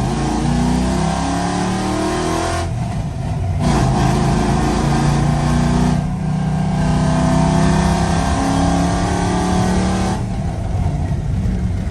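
Cammed pickup truck engine with a Stage 4 cam, header and cold air intake, running loud and revving up through the gears. Its pitch rises, then drops back about 3 s, 6 s and 10 s in, as at each upshift.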